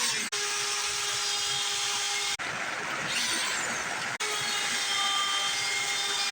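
A power grinder working the steel head of a cross peen hammer, a steady whine over a hiss, in short clips cut together with abrupt breaks about every two seconds.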